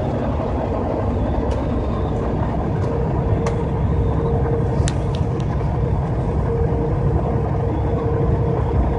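Car driving at highway speed, heard from inside the cabin: a steady low road and engine rumble with a faint steady tone coming and going. A few sharp faint ticks sound in the first half.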